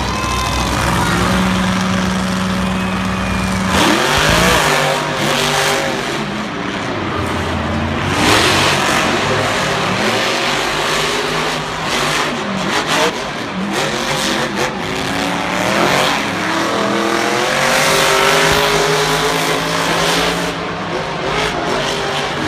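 Two monster truck engines holding steady revs, then launching about four seconds in and revving up and down hard through the race.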